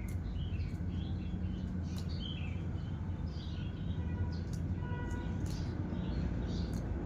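Sooty-headed bulbul giving short, repeated chirps, with several sharp clicks scattered among them, over a steady low hum.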